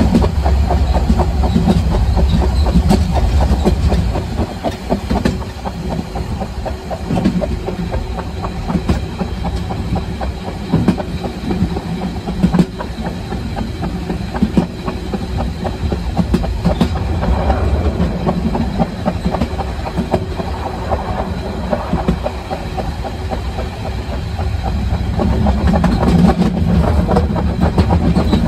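Narrow-gauge train running along the line, heard from on board: a steady rumble of wheels on rail with quick clicks over the rail joints. It grows louder near the end.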